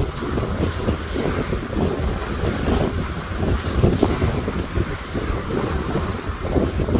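Wind buffeting the microphone on the deck of a moving boat, with a steady low rumble and water rushing underneath.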